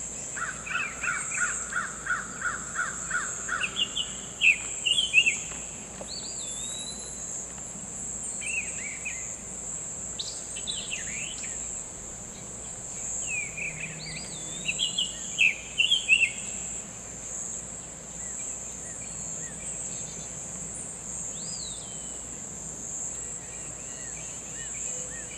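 Summer tanager singing: two bouts of short, quick, robin-like whistled phrases, a few seconds in and again past the middle. A steady high-pitched insect drone runs beneath, and near the start comes a rapid run of about ten evenly spaced notes.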